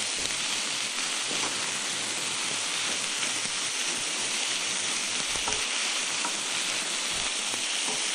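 Chopped onion, celery and jalapeño peppers sizzling steadily as they fry in a pan, with a few soft knocks as they are stirred.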